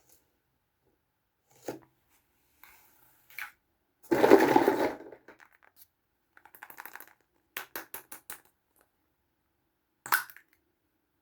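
Small plastic toy pieces handled on a hard surface: scattered clicks and taps. A louder noisy rattle lasts about a second just before the middle, and a quick run of clicks comes a little after it.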